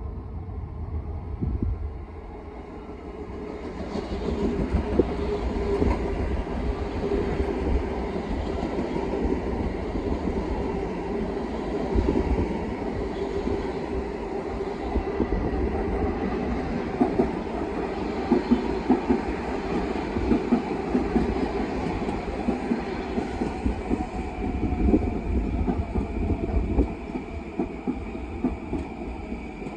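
Long Island Rail Road electric multiple-unit commuter train approaching and passing at speed: a steady rumble of wheels on rail that builds over the first few seconds, with rapid clicking and clatter as the wheels cross rail joints. Late on, a whine slowly drops in pitch.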